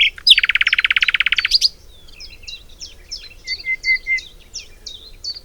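Songbirds singing: a loud, very rapid trill for about a second near the start, then a run of quick, high, down-slurred chirps from several birds.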